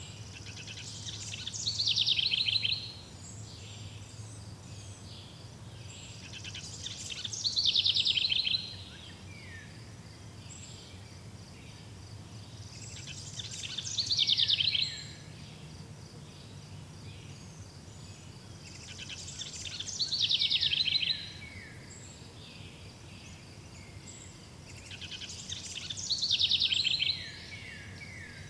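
A songbird repeating the same song phrase five times, about every six seconds: each is a quick run of notes that grows louder and ends in a few falling notes. A faint, steady chirring of insects runs underneath.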